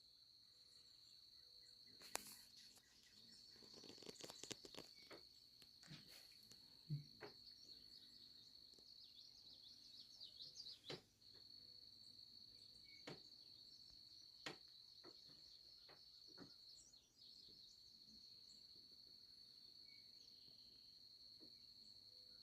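Crickets trilling in a steady, high, unbroken chorus that drops out briefly twice. Birds chirp and call here and there over it, mostly in the first half, along with a few short sharp clicks.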